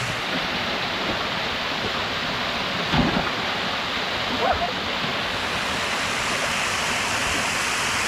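Kawa Kawa Falls, a waterfall, rushing steadily into its pool: an even, unbroken roar of falling water, with a brief louder thump about three seconds in.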